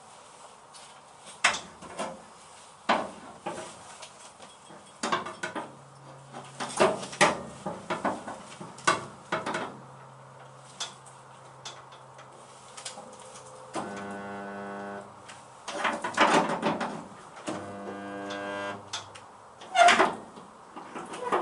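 Resistance spot welder buzzing twice in the second half, each weld lasting about a second, as it tacks the Mini's steel toe board panel. Scattered sharp knocks and clanks of metal run throughout.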